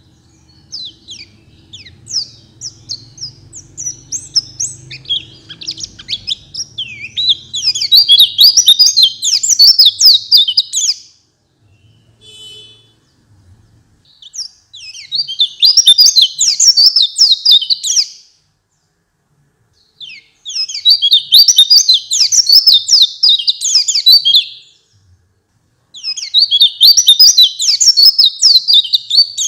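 White-eye (pleci) song: fast, high twittering phrases of about three to four seconds each, repeated four times with short pauses between. Softer, scattered chirps over a low hum come before the first full phrase.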